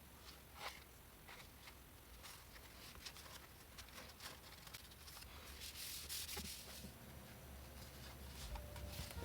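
Faint rustling, rubbing and light clicks of construction paper and card being handled.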